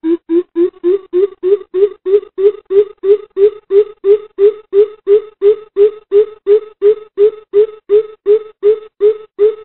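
Greater coucal calling: a long, even series of deep hooting notes, about three a second, rising slightly in pitch as the series goes on.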